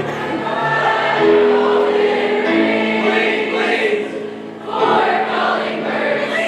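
School choir singing held chords, the notes sustained in long steady tones.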